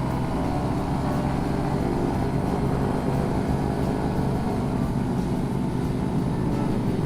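Motorcycle engine running at a steady pitch while riding along at an even speed.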